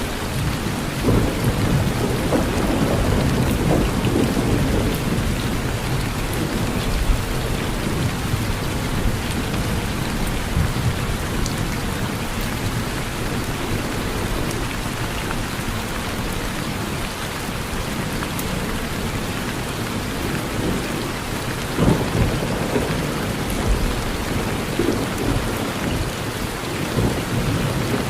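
Steady rain with rolling, low thunder rumbling through it, heaviest in the first several seconds. About three quarters of the way through, a sharper, louder crack of thunder stands out.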